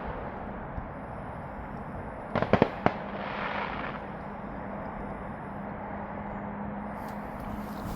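Fireworks going off: a quick string of four or five sharp pops about two and a half seconds in, followed by a short hiss.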